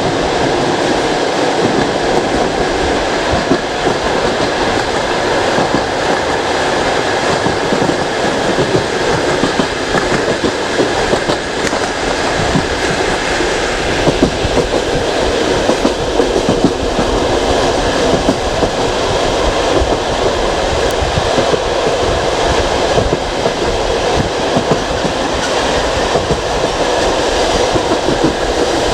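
Passenger railway carriage running at speed: a steady, loud rumble of wheels on the rails, with scattered clicks from the track.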